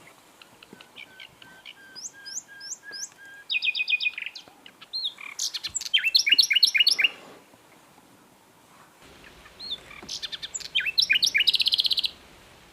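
Common nightingale singing: three phrases of varied whistles, slurred notes and fast trills, separated by short pauses. The first and last phrases end in a rapid, buzzy trill.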